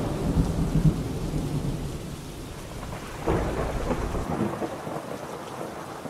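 Thunderstorm: steady rain with low rolling thunder, a sharper crack of thunder about three seconds in, after which the low rumble cuts off and only the rain continues.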